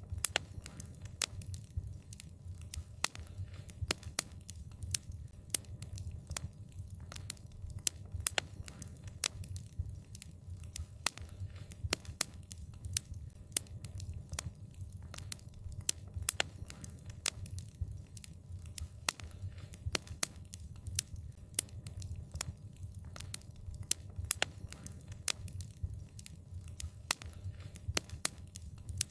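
Wood fire crackling: frequent, irregular sharp pops and snaps over a low, steady rumble.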